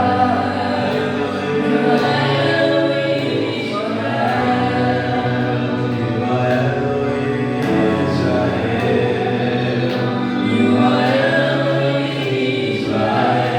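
Gospel worship music: a choir singing long, held notes together, with no clear words.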